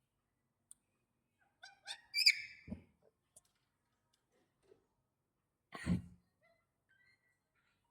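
Pet parrot giving a short whistled squawk about two seconds in, followed by a low thump, then a second brief noisy sound with a thump near six seconds.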